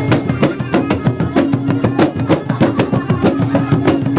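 Music for a traditional North Maluku dance: fast, even drumming with a steady pitched tone held underneath.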